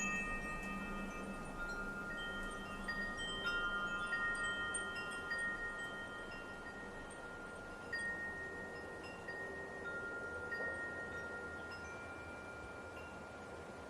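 Wind chimes ringing in a light breeze: long, overlapping notes struck at irregular moments over a soft wind hiss, growing quieter in the second half.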